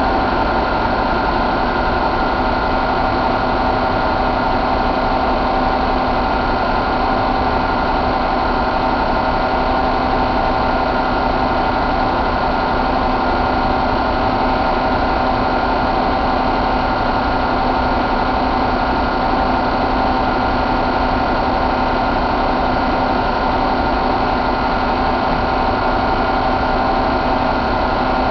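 2014 Volvo D13 inline-six diesel engine idling steadily, the speed holding even after start-up.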